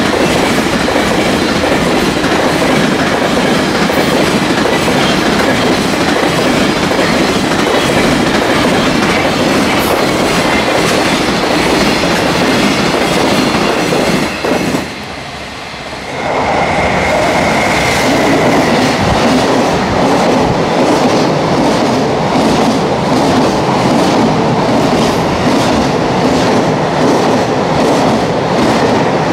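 Long container freight train passing at speed: a steady rumble of wagons with wheels clattering rhythmically over the rail joints. About halfway the sound dips briefly, then another passing of the train carries on, rushing through a station platform.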